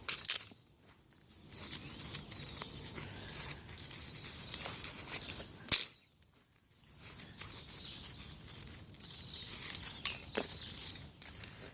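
Dried stinging nettles being crushed and broken up by hand: dry leaves and stems crackling and rustling in bouts, with a sharper crack about halfway through.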